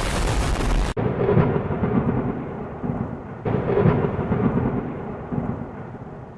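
A loud burst of hiss that cuts off about a second in, followed by a rumbling noise that swells again about three and a half seconds in and slowly fades.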